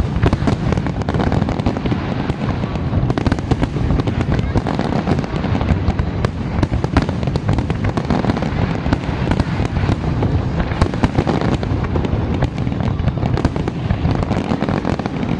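Fireworks display going off continuously: a dense, unbroken barrage of bangs and crackles over a low rumble.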